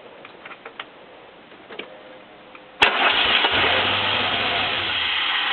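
DeLorean DMC-12's PRV V6 engine being started: after a few faint clicks it cranks and fires suddenly about three seconds in, running loudly for a couple of seconds before the level drops off sharply at the end.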